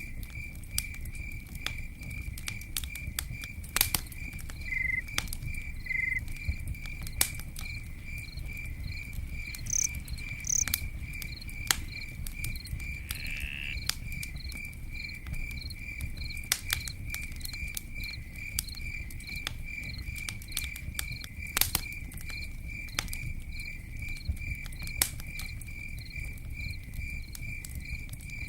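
Campfire crackling with scattered sharp pops over a low rumble, while a cricket chirps steadily at an even pace of two or three chirps a second.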